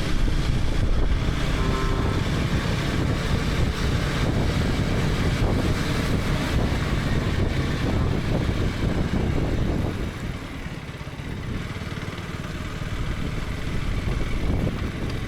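KTM 250 Adventure's single-cylinder engine running under way, with wind and road noise. It quietens about ten seconds in, then builds again near the end.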